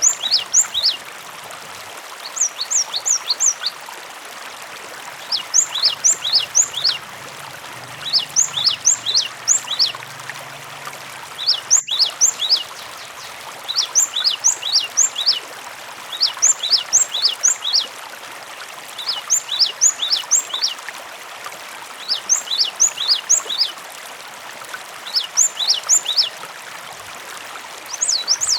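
Cinereous tit (gelatik batu) song: short phrases of quick, high, downward-sweeping notes, repeated about every two seconds, over a steady trickle of running water.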